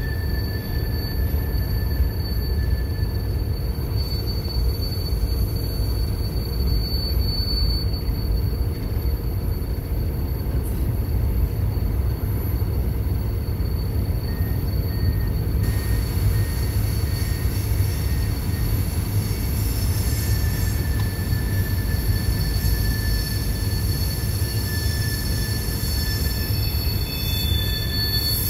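Freight train cars rolling past on the rails: a steady low rumble with a thin, high-pitched wheel squeal drawn out over it.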